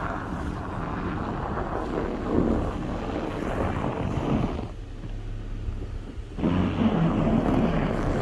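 Storm wind gusting over the microphone as a loud, rough rumble, easing off for about two seconds midway, when a steady low hum is left underneath, then gusting again.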